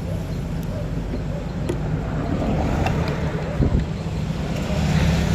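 A vehicle engine running at a steady idle, with a few light clicks.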